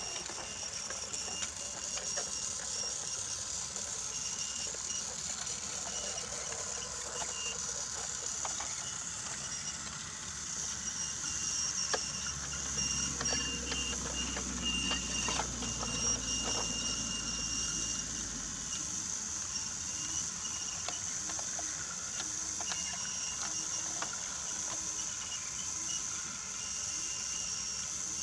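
Battery-powered Brio toy train running along wooden track: a small electric motor whirring with a thin high whine, and small clicks as the wheels cross the track joints. A deeper rumble swells in for several seconds in the middle.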